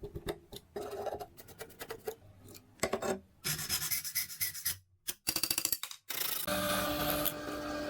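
Rapid, irregular scraping and rubbing strokes of a hand tool working rusty metal. About six and a half seconds in, a steadier running sound takes over.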